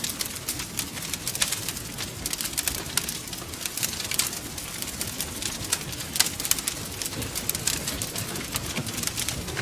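Wood fire crackling steadily: many irregular snaps and pops over a low rumble of burning.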